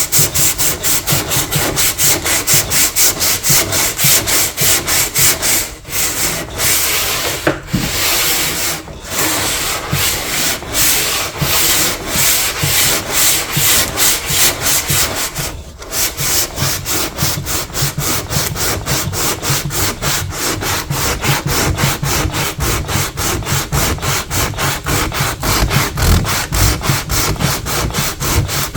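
Hand sanding to strip old paint and finish: sandpaper rubbed back and forth in quick even strokes, several a second, with a few short pauses.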